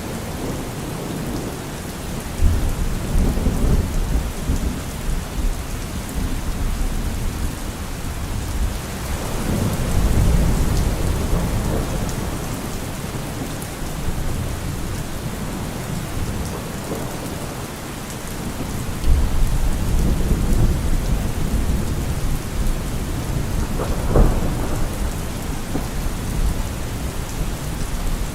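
Steady rainfall with rolling thunder: low rumbles swell and fade several times, and a sharper thunderclap cracks about four seconds before the end.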